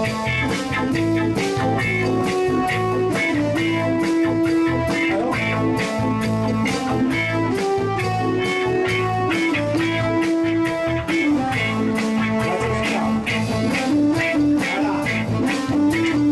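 A live band playing an instrumental break in a cha-cha song: a guitar carries the melody over a steady drum beat and bass.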